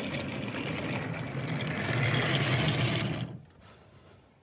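A toy train running along its track, its small motor whirring under a hiss of wheels, stopping about three seconds in.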